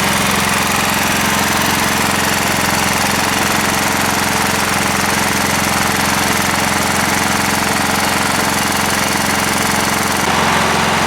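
John Deere L160 lawn tractor's single-cylinder Kohler engine running steadily, its crank-and-rod knock largely quieted by the thick oil stabilizer added to its oil, so it sounds like a pretty decent engine. The engine note changes about ten seconds in.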